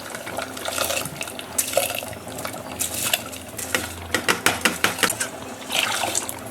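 Washed rice being tipped into a clay pot of wet mutton gravy and worked in with a utensil: wet swishing and splashing, with the utensil clinking against the pot in a quick run of clicks about four seconds in.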